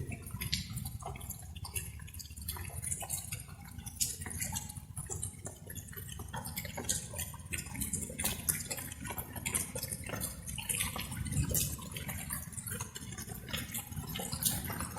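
Light rain: raindrops pattering and dripping irregularly, with a steady low rumble underneath.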